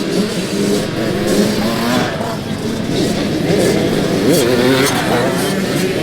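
Motocross bike engines running and revving, with voices mixed in.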